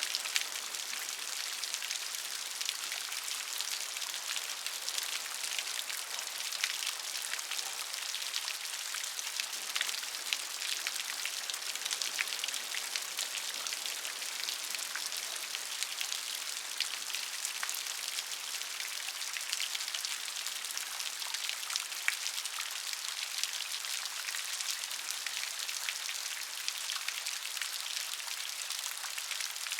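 Steady rain falling, a dense patter of individual raindrops hitting a surface.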